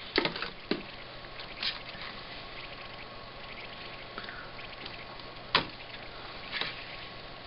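Scattered small clicks and taps from handling an electrolytic capacitor and connecting it to a capacitance/ESR tester, the loudest about five and a half seconds in, over a steady low hum.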